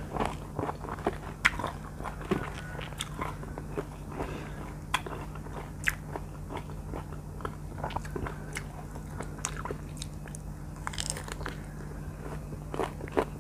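Close-miked biting, crunching and chewing of firm green R2 mango slices, with many sharp crisp crunches scattered throughout. A steady low hum runs underneath.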